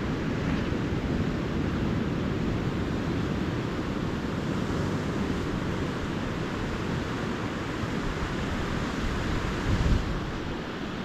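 Calm ocean surf washing steadily onto a beach, a low even wash with wind rumbling on the microphone, briefly swelling louder near the end.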